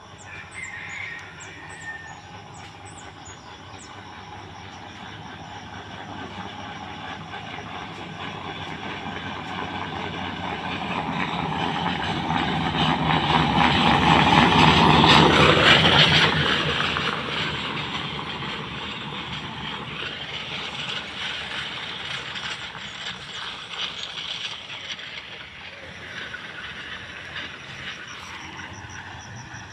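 A rattling vehicle approaches and passes, growing louder to its loudest about halfway through and then fading away.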